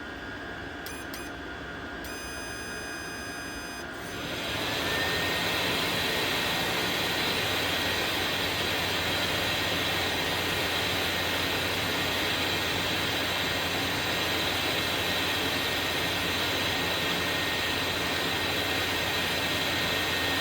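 Diesel heater blower fan run straight off a 12-volt supply, spinning up about four seconds in to a loud, steady rush of air with a whine that rises and then holds one pitch. It keeps its speed without slowing, which the owner takes as a sign that the fan is now fixed. A couple of clicks and a short steady tone come before it.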